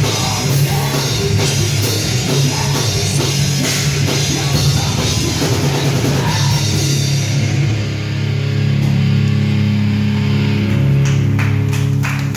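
Live rock band playing loud, heavy distorted guitar over a drum kit. About eight seconds in the drumming thins out and a low chord is held ringing, with a few sharp drum hits near the end.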